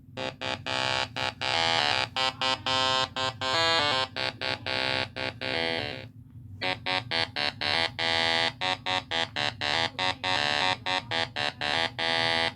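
A loud, buzzy electronic tone sounding in rapid stuttering pulses, shifting pitch now and then, with a brief break about six seconds in.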